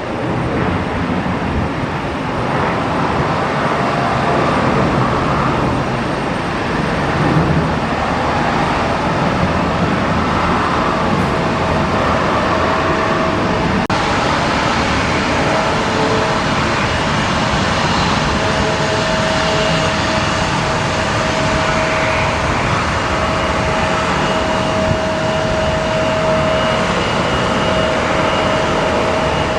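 Jet airliner engines running, a loud steady rushing noise; a steady whine comes in about ten seconds in, with a fainter higher whine joining later.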